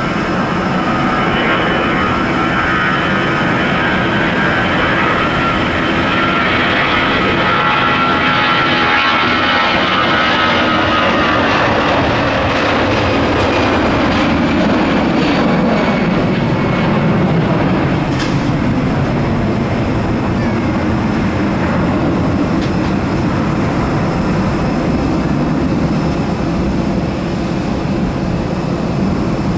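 Airbus A320's twin jet engines at takeoff power: a high fan whine made of many close tones that slide down in pitch over the first dozen seconds, giving way to a deep, steady rumble as the jet departs.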